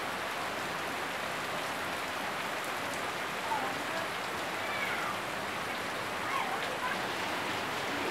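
Heavy tropical downpour: steady rain pouring onto paving, garden plants and the surface of a swimming pool.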